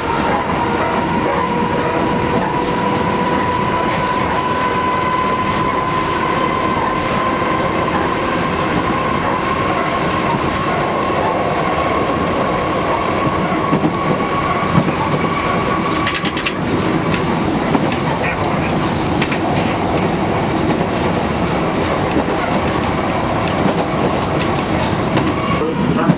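Hiroshima Electric Railway 3100-series tram running on nose-suspended (tsurikake) traction motors. A gear-and-motor whine rises slowly in pitch as the tram gains speed, then fades out about sixteen seconds in, with clicks of wheels passing over rail joints.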